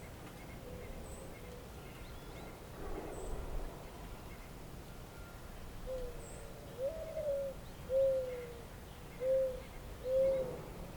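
Bird calls: a series of five low, pitched notes starting about six seconds in, the second rising then held and others falling slightly, over a faint steady hiss with faint high chirps.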